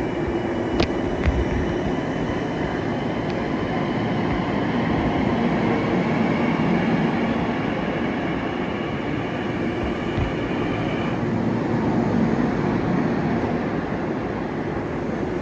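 Long Island Rail Road electric multiple-unit train moving along the platform: a steady rumble of wheels and motors, with a thin high whine over it that stops about eleven seconds in.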